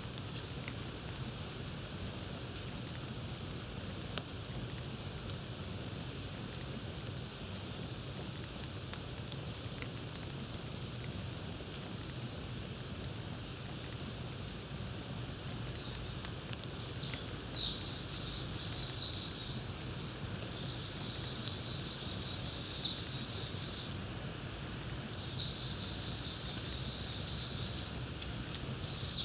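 Campfire crackling over a steady hiss, with sharp pops scattered throughout. From about halfway, a bird calls repeatedly: short falling whistles, each run into a fast trill.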